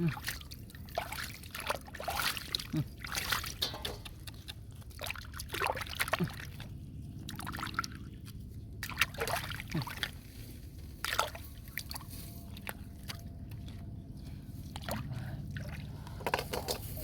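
Pond water sloshing and splashing in many short, irregular splashes, as of hands or a person working through shallow water.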